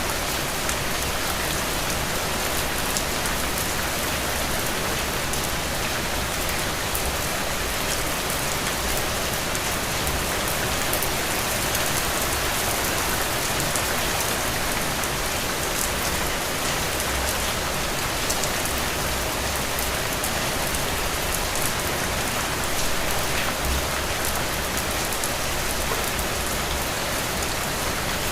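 Steady rain falling, a dense even hiss with fine ticks of individual drops hitting a surface.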